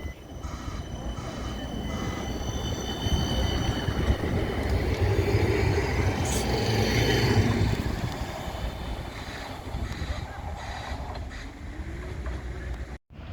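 A tram passing on street track, its running noise building to a peak about seven seconds in and then fading away. Thin, high wheel squeal rings over most of the pass. The sound drops out for a moment near the end.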